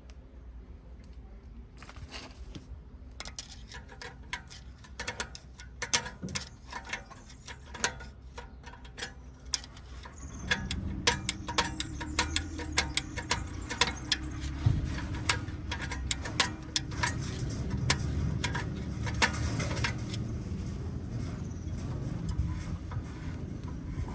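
Irregular metallic clicking and ratcheting of small metal parts being worked, with a low rumble joining about halfway through.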